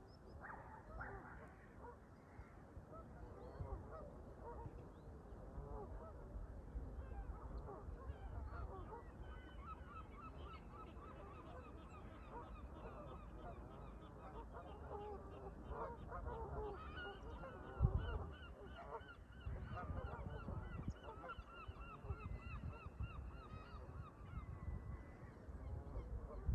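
A flock of Canada geese honking, many overlapping calls that grow denser and more continuous after the first third, over a low wind rumble on the microphone with one brief thump about two-thirds in.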